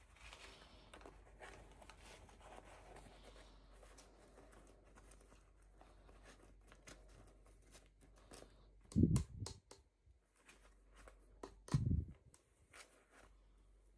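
Hands handling toy packaging: faint rustling and small clicks, with two short dull thumps, one about nine seconds in and another about three seconds later.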